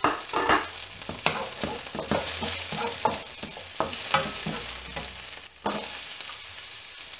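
Chopped ginger, garlic, chilies and coriander sizzling in hot coconut oil in a steel wok, with a wooden spatula scraping and knocking against the pan as they are stirred. Near the end a sudden rush of sizzling as chopped onion goes into the hot oil.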